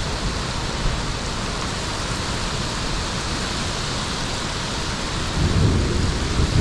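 Heavy rain pouring steadily in a thunderstorm. A low rumble swells up near the end and grows louder.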